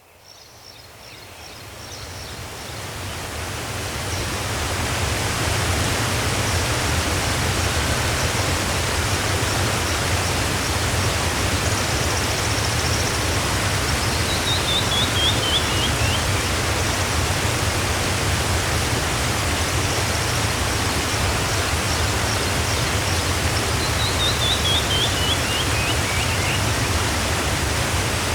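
Waterfall's steady rush of falling water, fading in over the first few seconds. A bird twice gives a quick run of notes that fall in pitch, over faint high chirping.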